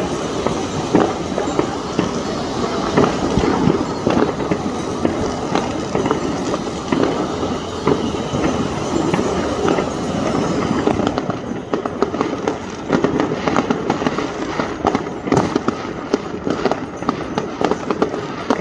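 Fireworks going off: a dense, continuous stream of bangs and crackles, turning into more separate, sharper cracks about halfway through.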